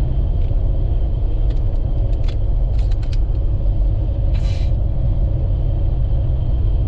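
Steady low rumble of a vehicle, with a few light clicks in the first half and a short hiss about four seconds in.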